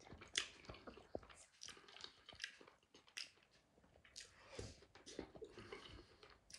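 Faint chewing and lip-smacking of a man eating soft food from a spoon, with scattered small wet clicks.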